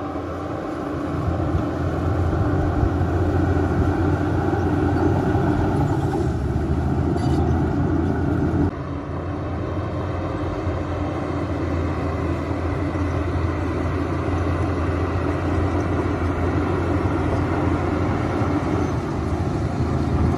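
Diesel engines of heavy earthmoving machinery running steadily, a loud drone with a strong low hum. The sound drops and changes abruptly about nine seconds in, then carries on steadily.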